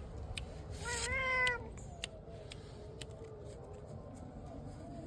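A domestic cat meows once, a drawn-out call about a second in, with a few faint short taps around it.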